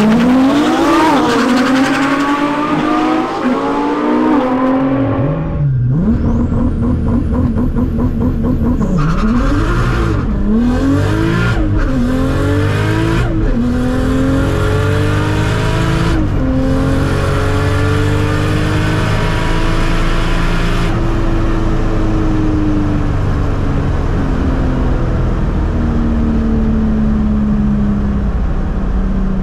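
Single-turbo 2JZ-GTE straight-six in a Mk IV Toyota Supra under full throttle on a drag pass. The revs climb and drop sharply at each gear change, again and again. In the last third the pitch falls slowly and evenly as the car lifts off and slows; that part is heard from inside the cabin.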